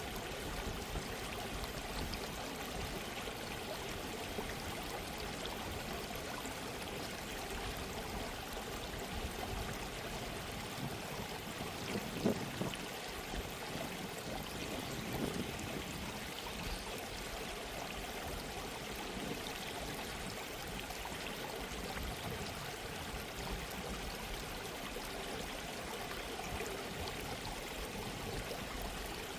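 Gentle stream of running water flowing steadily, with a slightly louder gurgle about twelve seconds in.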